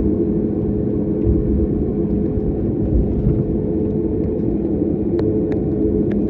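Jet airliner heard from inside the cabin: a steady engine and airflow rumble with a constant low hum, and a few faint clicks near the end.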